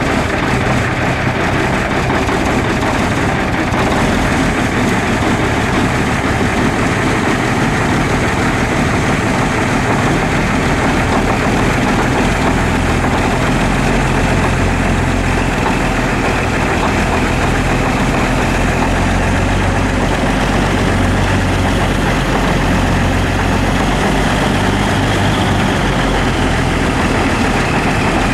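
Cummins L10 straight-six diesel in a 1990 Volvo GM semi-truck idling steadily after a cold start. Its low engine note grows stronger about halfway through.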